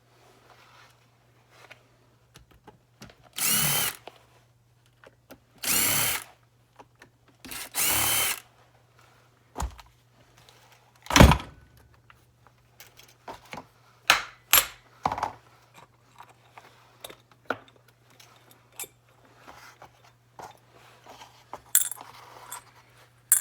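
Cordless drill-driver spinning in three short bursts, its motor whine rising and falling in each. It is followed by scattered clicks and clinks of small metal parts and one sharp knock.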